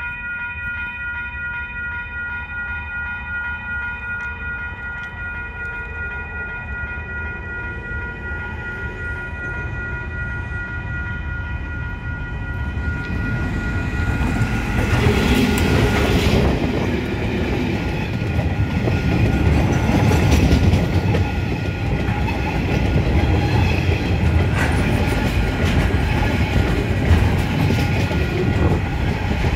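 Level crossing alarm bells ringing steadily as a diesel locomotive approaches. About 14 seconds in, the locomotive passes close by, getting loud. It is followed by a container freight train's wagons rumbling and clicking over the rail joints.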